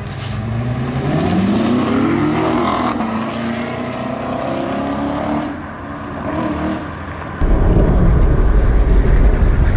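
Chevrolet Corvette Stingray's V8 accelerating hard from a standing launch, heard from inside the cabin. The revs climb and then drop at an upshift about two and a half seconds in. The engine note falls away about five and a half seconds in, and a loud low rumble sets in near the end.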